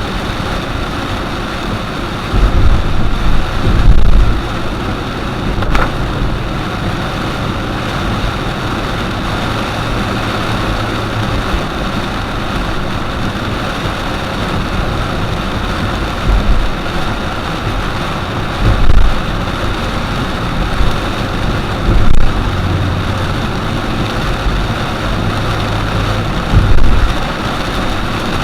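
A car driving in the rain: a steady hiss of tyres on wet road and rain. Low rumbles come and go several times, loudest about four seconds in and again near 22 seconds.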